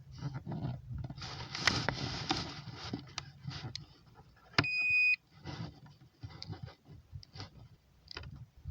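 A single electronic beep, about half a second long and a little past the middle, from the WLtoys V950 radio-control gear being switched on, amid rustling and sharp clicks from the equipment being handled.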